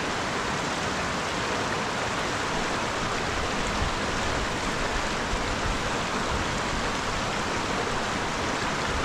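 Mountain river rushing with a steady, even roar of water.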